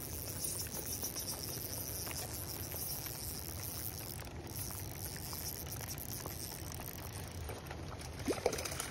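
Rain falling on a pond, with a steady high-pitched chirring over it. Near the end, a couple of sharp splashes as a hooked trout is scooped into a landing net.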